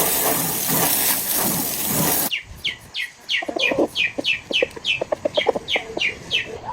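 A loud, steady hiss cuts off suddenly about two seconds in. Chickens follow, a quick run of short, falling high peeps, about three a second, with lower clucks under them.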